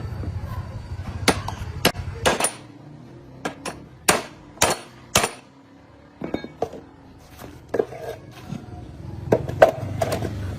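Irregular hammer blows and clinks on metal, about a dozen, the loudest three coming about half a second apart near the middle. A low steady drone runs under the first couple of seconds, stops about two and a half seconds in, and comes back near the end.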